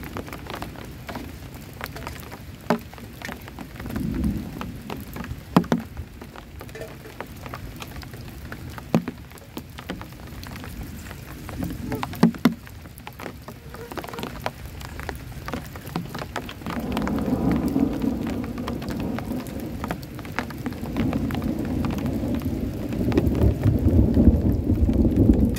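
Rain falling, with single heavy drops striking a surface close by. A low thunder rumble swells about two-thirds of the way through and is loudest near the end.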